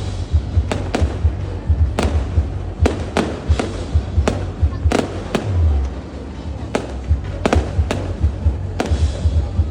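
Aerial fireworks bursting: a run of sharp bangs at irregular spacing, roughly one or two a second, over a rumble of deeper thuds.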